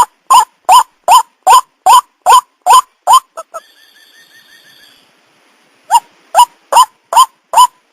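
White-breasted waterhen calling, a loud 'kru-ak' repeated about two and a half times a second. The series breaks off about three seconds in, a faint quick chatter follows, and the loud calls resume about six seconds in.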